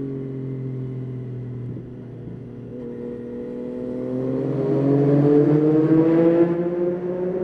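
Yamaha Tracer 9's three-cylinder engine under way, easing off briefly, then accelerating hard with its pitch and loudness climbing steadily for several seconds, before falling away suddenly near the end.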